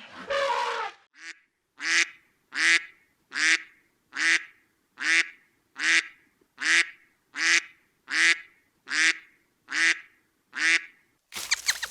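Waterfowl calling: one longer call, then a regular series of about a dozen short calls, each about 0.7 s apart and equally loud. A different, rattling sound cuts in just before the end.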